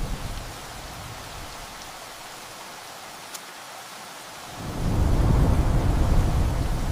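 Steady rain with rolling thunder. One rumble dies away at the start, and a second deep rumble swells up about four and a half seconds in.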